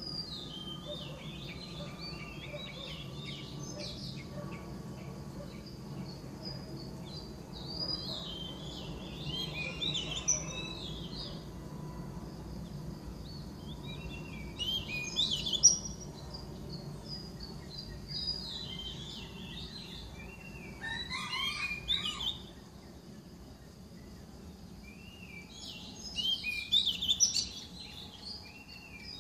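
A songbird singing about six short bursts of quick chirping notes, a few seconds apart, over a low steady hum.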